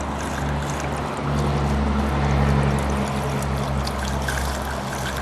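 Gasoline pouring through a funnel into a riding mower's fuel tank, a steady trickling stream.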